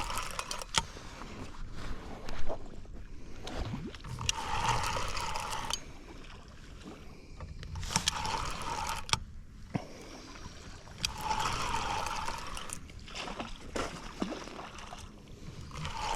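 Fishing reel being cranked in bursts of a second or two, every few seconds, as a hooked catfish is reeled in, with scattered sharp clicks.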